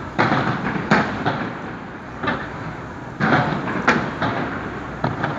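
New Year's fireworks bursting: a string of irregular bangs, about nine in five seconds, each with a short echoing tail, over a steady background rumble.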